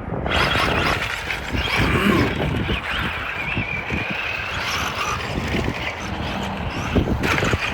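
Radio-controlled cars' electric motors whining, the pitch rising and falling with the throttle, over tyre rumble and scattered knocks from the chassis.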